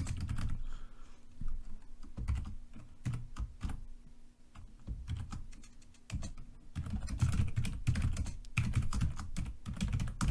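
Typing on a computer keyboard: a quick, irregular run of key clicks with low thuds under them, slackening about halfway through and picking up again in dense bursts near the end.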